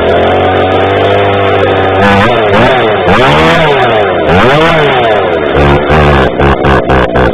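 Homelite two-stroke chainsaw running soon after a cold start. It idles steadily for about two seconds, is revved up and down twice in long sweeps, then blipped quickly several times near the end.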